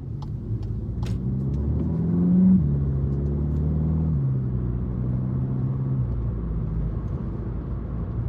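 Volkswagen Polo GTI engine pulling under acceleration. Its pitch rises and then drops sharply at a gear change a couple of seconds in, steps down again at another shift about four seconds in, then runs steadily at cruise.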